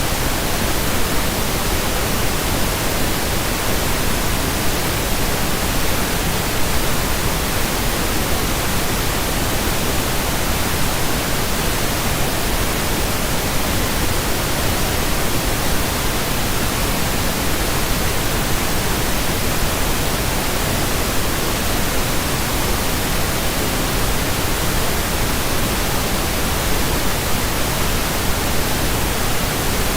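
Steady pink noise: an even, unchanging hiss across the whole range, with no events in it.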